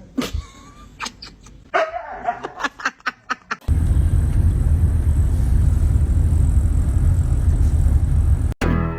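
A dog barks in a rapid run of short barks. Then a loud, steady low rumble takes over for about five seconds and cuts off suddenly.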